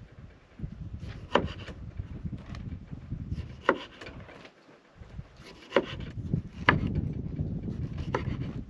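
Campfire burning with a steady crackle and a few sharp pops from the wood, irregularly spaced.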